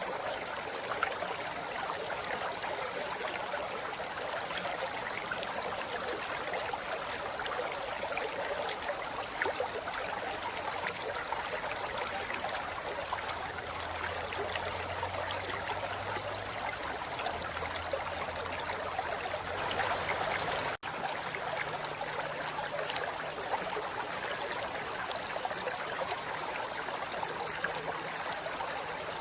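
A forest river flowing steadily over rocks, a continuous rush of water with no let-up, broken only by a momentary dropout about two-thirds of the way through.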